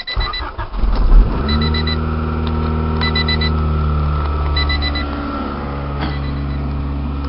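The 1991 Honda Civic Si's swapped B16A DOHC VTEC four-cylinder is cranked by the starter, catches about a second and a half in, and settles into a steady idle. It idles a little high because the engine is cold. An electronic chime beeps in short runs about every second and a half.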